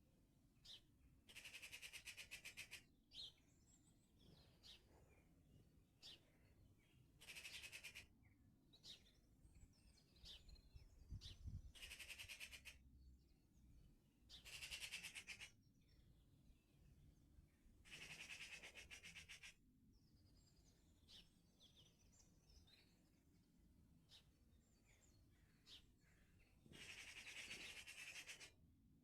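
Faint birdsong: a songbird repeats a fast, dense trilled phrase of one to two seconds about six times, with short high chirps between the phrases.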